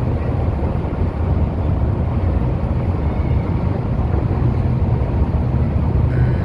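Car ferry's engines running with a steady low rumble as it sits at the dock, with wind noise on the microphone.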